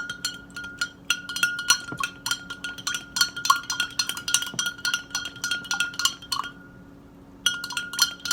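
A spoon stirring water in a glass, clinking quickly and repeatedly against the glass with a ringing note, several taps a second. The clinking stops for about a second near the end, then starts again.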